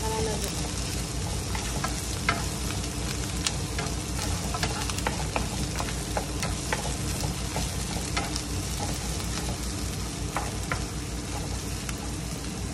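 Chopped onion, garlic and ginger sizzling in oil in a non-stick frying pan, being sautéed until they start to brown, while a wooden spatula stirs them with irregular clicks and scrapes against the pan.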